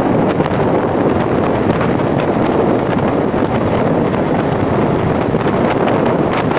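Steady, loud wind rushing over the microphone of a moving rider, with vehicle noise mixed in underneath.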